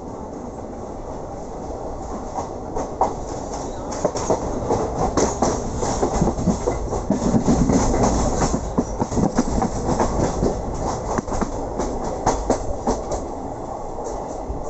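A passenger train running on the rails, heard from on board: a steady rumble with the wheels clicking and knocking over rail joints, loudest through the middle.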